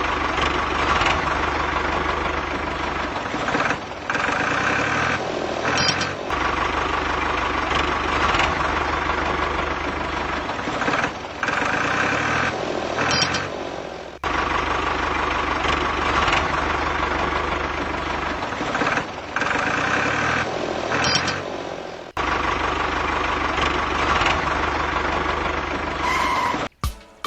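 Tractor-style engine running steadily with short dips in level, the same stretch of sound seeming to repeat about every eight seconds. It stops abruptly near the end.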